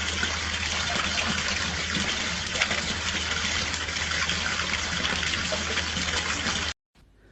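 Steady rushing noise like running water, with a low hum beneath, cutting off suddenly near the end.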